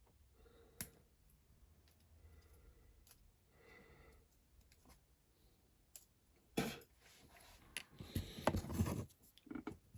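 Small hand-work at a modelling bench: a few sharp clicks and snips as a small strut is cut and handled, with a burst of denser rustling and scraping near the end.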